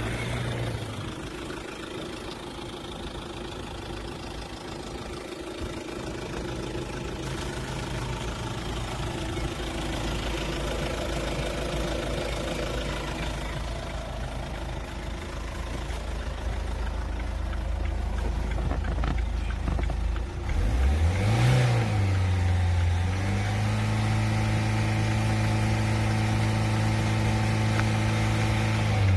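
Chevrolet Captiva's turbo diesel engine idling steadily, then given a quick blip of the throttle about two-thirds of the way in. It is then held at raised revs with a steady note before dropping back at the end.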